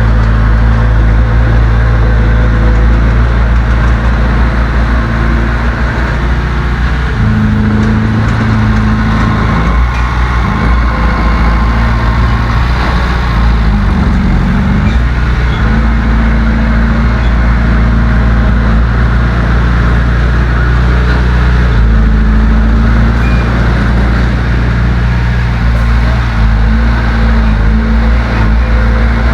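Heavy diesel engine of earthmoving machinery running loud and steady. Its engine speed changes several times, with a dip and rise in pitch about halfway through.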